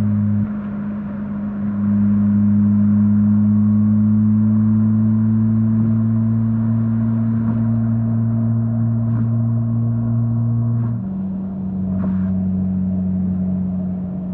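Mazda RX-8's Renesis 13B two-rotor rotary engine, breathing through a stainless dual muffler, running at steady cruising revs with a smooth even note. It eases briefly just after the start, and about eleven seconds in the note drops slightly in pitch and gets a little quieter.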